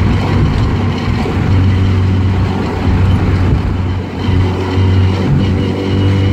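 Lada 2105 engine running as the car drives along, with tyre and road noise, heard from inside the cabin as a steady low drone.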